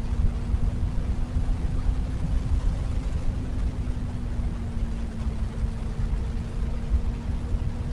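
Wind buffeting the microphone of a moving Benelli BN600i motorcycle, louder than the bike itself, with the inline-four engine's steady drone underneath.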